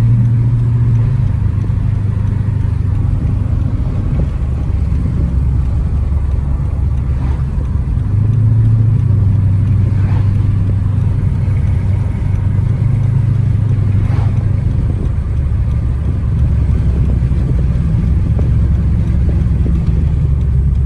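Car engine and road noise while driving: a steady low drone whose pitch shifts a few times as the speed changes.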